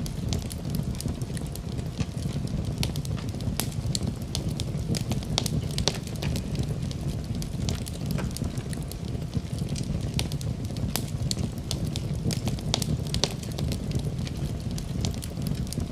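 Wood fire in a fireplace crackling: a steady low rush of flames under frequent, irregular sharp pops and snaps.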